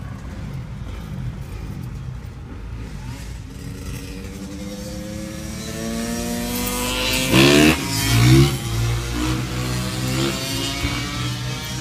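A car engine runs in the cabin with a steady low rumble. Its note rises from about four seconds in. A couple of loud thumps come about two-thirds of the way through.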